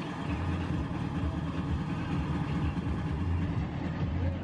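A car engine idling nearby with a low, uneven rumble.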